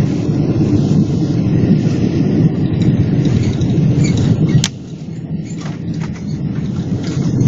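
Heavy low rumble inside the cabin of a Boeing 777-300 on its landing roll. Just past halfway a sharp click is heard, and the rumble drops suddenly to a quieter level.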